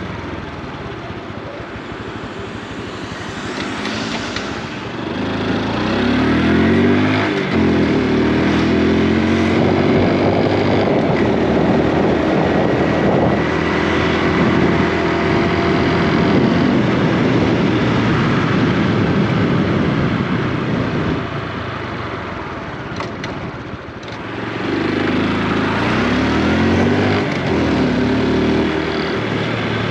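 Honda Super Cub C125's single-cylinder engine and exhaust pulling away, its pitch rising in steps through the gears a few seconds in. It then runs steadily at cruising speed with wind and road noise, eases off for a moment, and accelerates through the gears again near the end.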